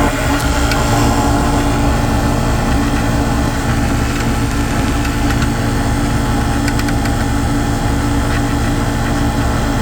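Five-ton Rheem Classic X air-conditioning condenser running, its Tecumseh AV reciprocating compressor humming with a rapid rough knocking over the steady drone of the condenser fan. The knocking is the sign of a compressor in poor shape, though the unit is cooling well.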